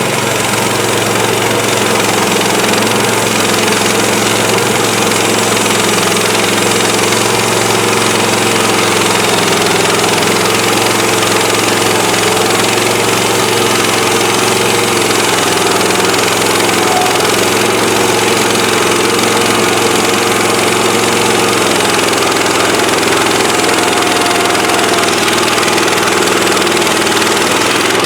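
Gasoline engine of a portable bandsaw sawmill running steadily and loudly, with a slight waver in its pitch.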